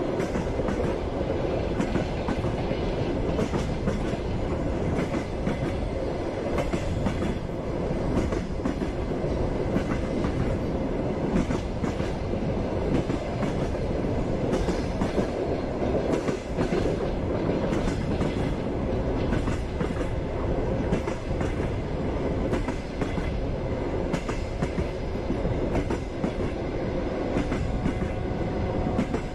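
Wheels of a moving passenger train clacking over rail joints, over a steady running rumble, heard from inside the carriage.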